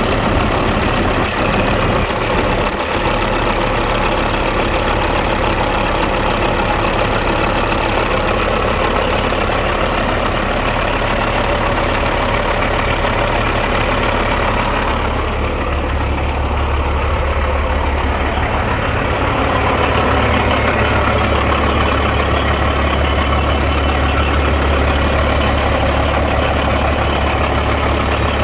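Caterpillar C15 inline-six diesel engine of a Western Star 5700 dump truck running steadily at idle. Its low drone grows stronger about halfway through.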